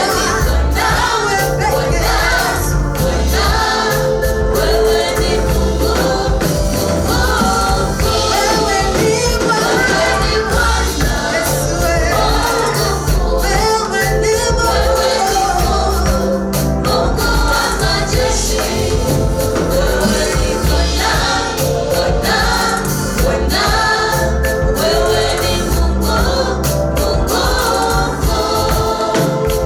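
Choir singing gospel praise music with instrumental accompaniment and a steady bass.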